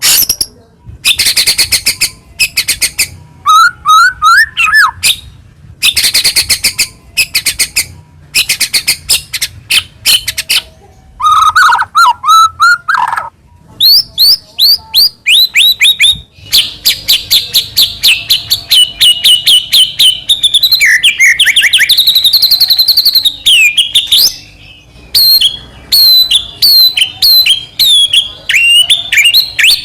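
White-rumped shama (murai batu) singing a loud, varied song. The first half is dense bursts of high chattering broken by two lower whistled trills. From about halfway it turns to long runs of quick sweeping notes and trills.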